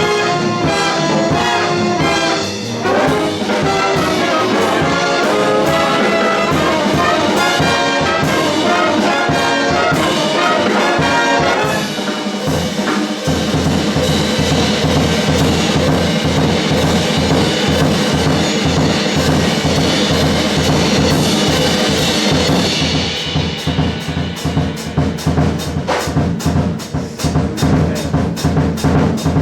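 Jazz big band in full swing: trumpets, trombones and saxophones playing loud ensemble lines over bass, guitar, piano and drum kit. In the last few seconds the horns drop back and the drum kit comes to the front with rapid strikes.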